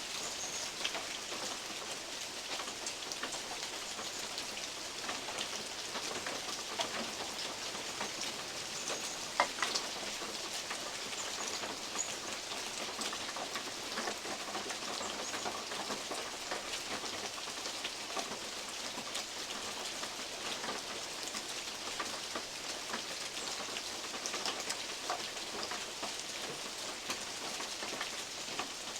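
Steady rain hiss with scattered heavier drops, big drops from oak leaves, ticking and plinking on a metal roof. The sharpest tick comes about nine seconds in.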